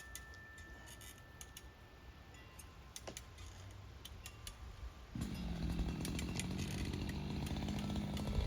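A chainsaw starts about five seconds in and runs at a steady idle; before that there are only faint scattered ticks.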